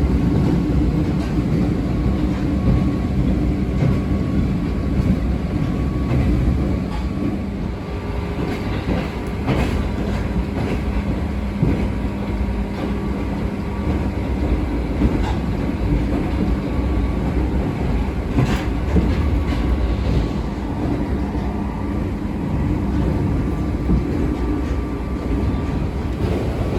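Abukuma Express 8100 series electric train running along the line, heard from inside the passenger car: a steady rumble and motor hum with a few sharp clacks from the wheels over the rails.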